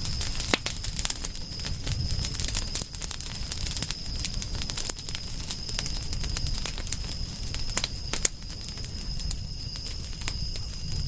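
Wood fire crackling, with many irregular sharp snaps and pops over a low rumble. A steady thin high-pitched tone runs beneath it.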